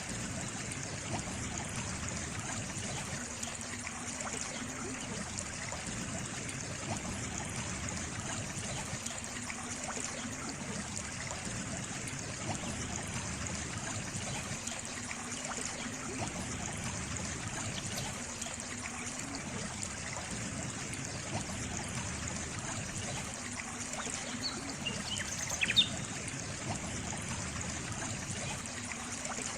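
Small stream of water trickling steadily. A few short high chirps sound near the end, the loudest a brief sharp one.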